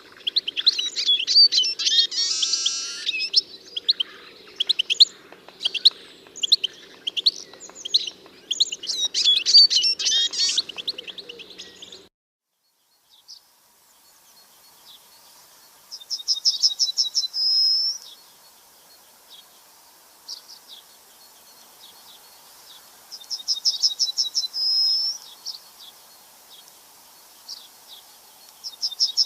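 Songbirds calling: about twelve seconds of busy, overlapping high chirps and song, then after a brief break a single bird repeating one short phrase three times, a fast trill ending in a higher held note, about every six to seven seconds.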